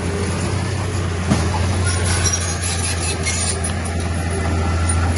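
Diesel engine of heavy earthmoving machinery running steadily with a low drone, with a single knock about a second in.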